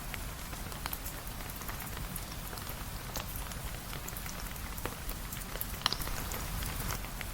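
Steady rain falling, an even hiss over a low rumble, with scattered sharp ticks, the clearest about three seconds in and near six seconds.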